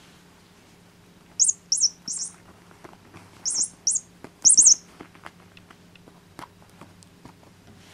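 Squeaky toy bird peeping in short, high-pitched chirps, set off by a cat biting and shaking it: three quick runs of chirps in the first five seconds, then only faint taps.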